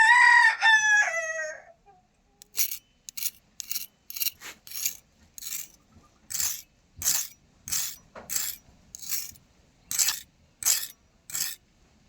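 A rooster crows once at the start, the call falling in pitch at its end. Then comes a run of about fifteen short, sharp noisy strokes, roughly one or two a second, that stop just before the end.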